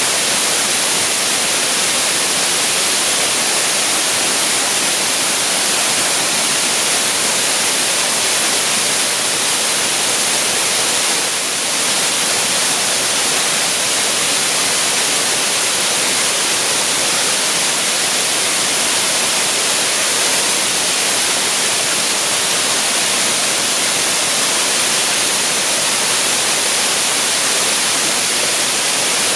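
Waterfall pouring steadily: a loud, even rush of falling water with a hissy, high-weighted sound.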